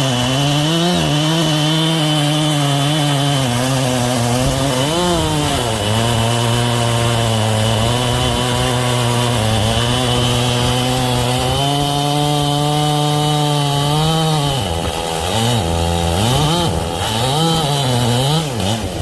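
Two-stroke chainsaw cutting through dense, dried elm. The engine pitch sags as the chain loads up in the wood and climbs back as it clears, with several quick dips and recoveries near the end.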